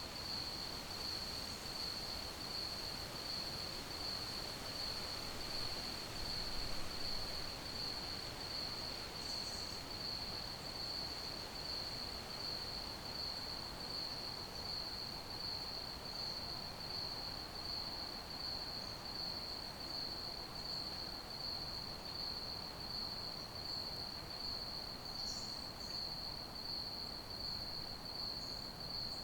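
Crickets chirping in a continuous, fast-pulsing trill held at one high pitch, over a steady hiss of background noise.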